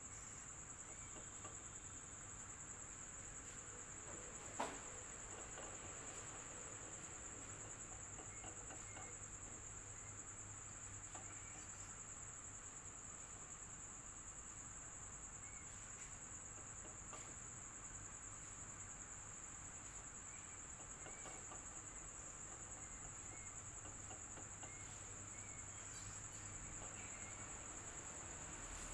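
Faint, steady electric fan noise with a continuous high-pitched insect trill, like a cricket's, running over it, and a single sharp click about four and a half seconds in.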